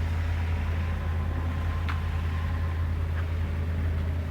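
Steady low electrical or mechanical hum, with one faint click about two seconds in.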